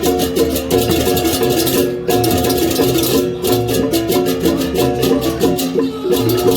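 Balinese gamelan music, most likely a baleganjur ensemble: rapid, steady clashes of cymbals over ringing metal-keyed and gong tones, with brief breaks in the cymbals about two, three and six seconds in.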